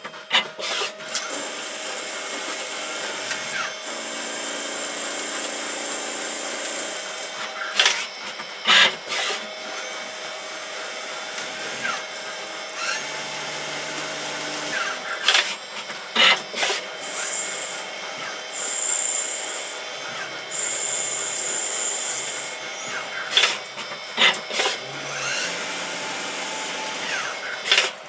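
CNC turning center machining mild steel: a steady cutting and spindle noise with a held hum, high whining tones that come and go, and sharp clicks or knocks now and then.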